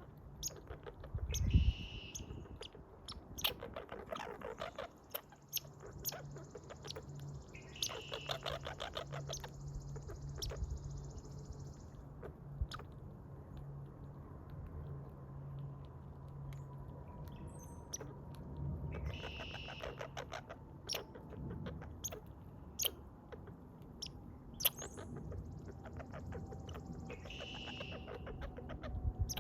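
American red squirrel close to the microphone, making several short bursts of rapid clicks.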